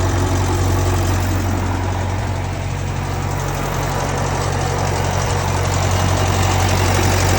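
Air-cooled four-cylinder Wisconsin engine of a Vermeer M437 trencher idling steadily as it warms up after a cold start.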